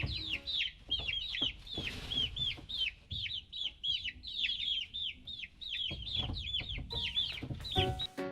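Chickens: a hen clucking among chicks, whose rapid high peeps follow one another several times a second, each falling in pitch.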